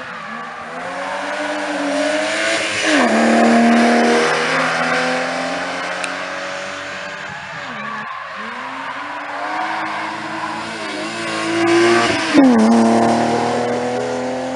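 Two rally car engines passing one after the other at full throttle. Each note drops sharply as the driver lifts and shifts down, then climbs steadily as the car accelerates away.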